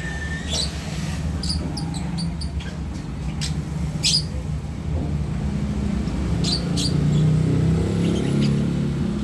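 Lovebird giving short, sharp chirps at irregular intervals, a bird coming into breeding condition, over a steady low hum.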